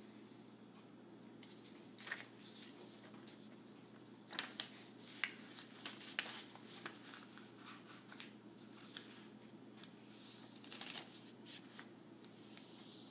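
A sheet of paper being handled and folded: scattered soft rustles and short crisp creasing sounds, busiest a few seconds in and again near the end.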